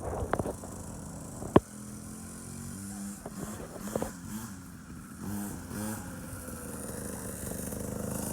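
A small 50cc kids' motorcycle engine running at a distance, its pitch rising and falling in short revs. There is a sharp knock about a second and a half in.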